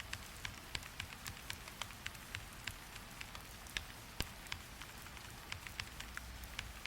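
Steady rain hiss with many irregular sharp ticks of drops landing, several a second.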